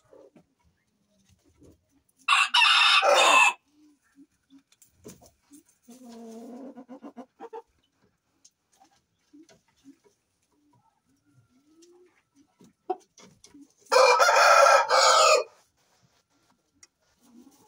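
A rooster crowing twice, each crow loud and lasting about a second and a half, the first about two seconds in and the second near the end. Softer clucking-like calls come in between.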